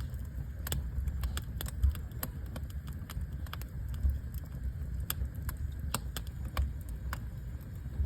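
Wood fire burning in a fireplace, crackling with irregular sharp pops, a few a second, over a steady low rumble; the loudest pops come about two and four seconds in.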